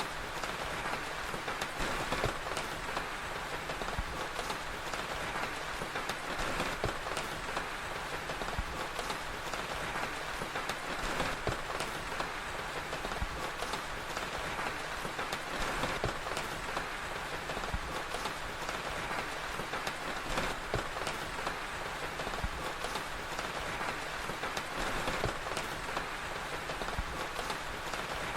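Steady rain ambience with a crackling fire: an even hiss of rainfall dotted with many small, sharp crackles.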